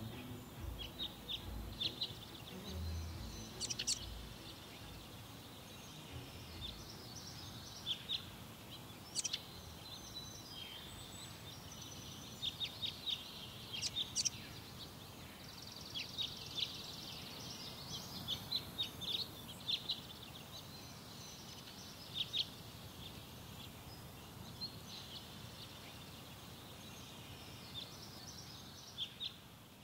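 Birds chirping, with many short scattered calls, over a steady faint hiss. Low music fades out in the first few seconds.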